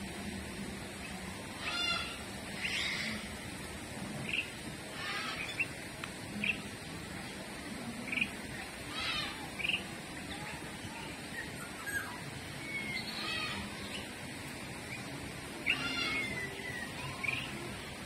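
Birds calling: a dozen or more short chirps and squeaky, falling calls scattered through the stretch, over steady background noise.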